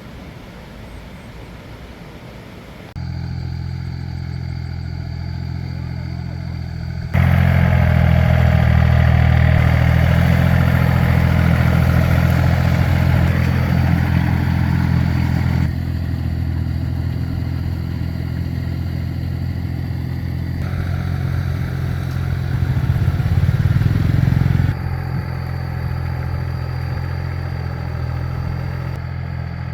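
Tractor engine running steadily at a low, even pitch. Its loudness steps up and down abruptly a few times, with a brief rev just before the last drop.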